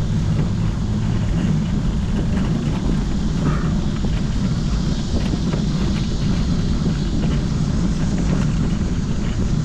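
Steady low rumble of wind and road noise from a bicycle ride in motion, unbroken and even.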